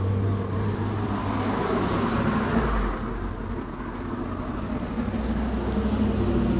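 Road traffic: a steady low engine hum with cars driving past, one swelling and fading about two seconds in and another building near the end.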